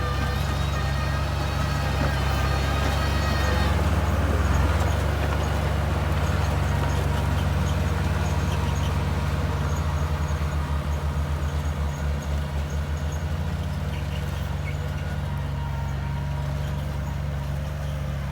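A bulldozer's diesel engine running steadily with a deep low rumble, and a pulsing throb about ten to thirteen seconds in.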